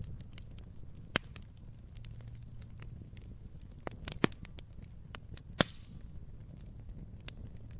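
Fire crackling: scattered sharp pops and snaps over a steady low rumble, with three louder pops, one about a second in and two past the middle.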